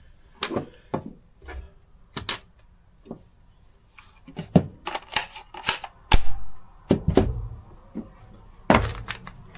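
Irregular plastic clicks and knocks as cordless drill and impact driver bodies and parts are handled and set down, with a cluster of louder knocks in the second half.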